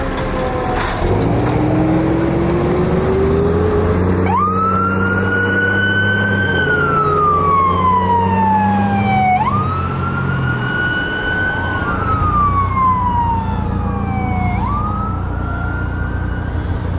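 Emergency vehicle sirens on a fire engine and ambulance responding to a call. A low siren tone slowly winds upward, then from about four seconds in an electronic wail rises and falls about every five seconds, over the steady rumble of a heavy engine.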